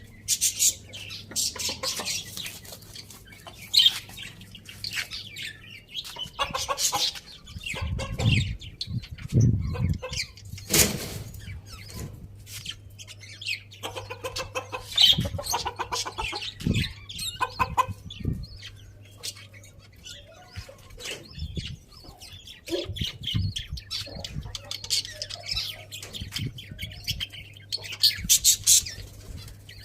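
Chickens clucking and chirping while feeding, with scattered short thumps and scuffles among them.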